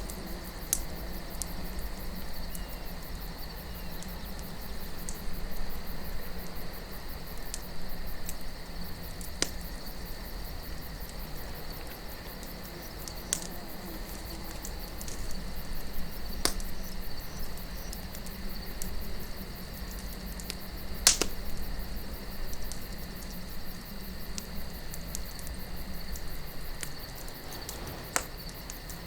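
Campfire of burning wood crackling, with sharp pops every few seconds, the loudest about 21 seconds in, over a low steady rumble of wind and the continuous chirring of crickets.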